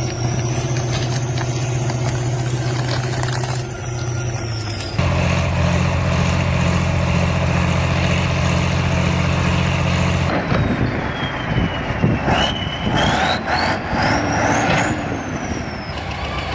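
Heavy machinery engine running steadily, its pitch changing abruptly about five seconds in and again about ten seconds in. In the last part, clattering knocks come with a high whine that falls and then rises.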